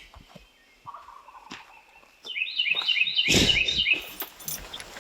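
Wild turkey gobbler gobbling, a rapid rattling run of notes lasting under two seconds, starting about two seconds in. A loud low rumble on the microphone overlaps the gobble.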